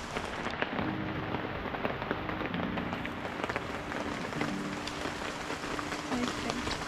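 Steady rain falling, with many separate drops striking close by, and a faint low hum coming and going underneath.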